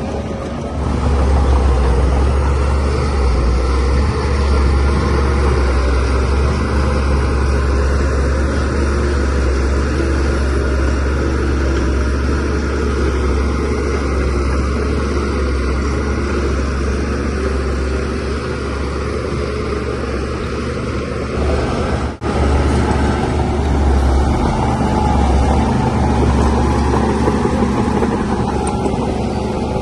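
DH17C3PRO bulldozer's diesel engine running steadily under load, a deep drone that grows louder about a second in. The sound drops out for an instant about two-thirds of the way through.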